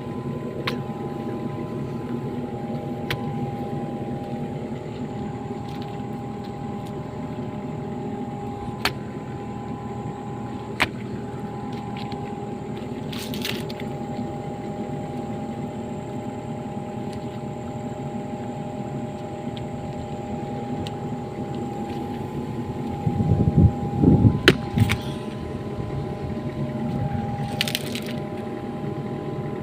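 Excavator engine running steadily, with a few sharp clicks and knocks and a louder low rumble with knocks about 23 to 25 seconds in.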